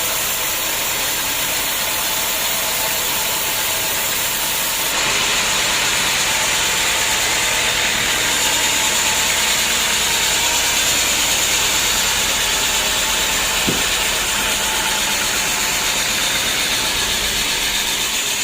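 Sawmill machinery running steadily, a continuous engine-like noise that turns abruptly harsher and brighter about five seconds in, with a single sharp knock near the end.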